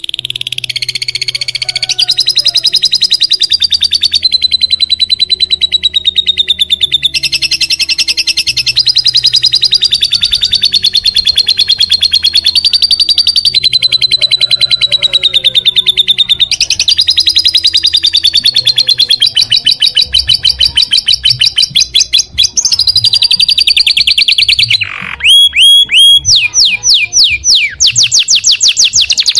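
Songbird training recording: a bird singing rapid buzzing trills of very fast repeated chirps, the pattern switching every couple of seconds as if spliced into a loop. Near the end it changes to a string of quick downward-sweeping whistles, several a second.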